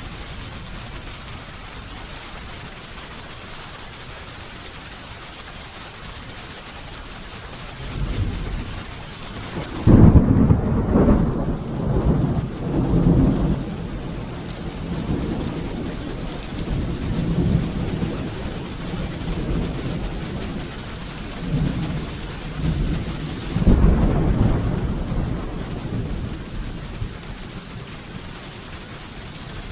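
Steady rain falling, with rolling thunder: a low rumble builds about a third of the way in and breaks into a loud clap, rolling on in rumbles, and a second loud peal follows near the end.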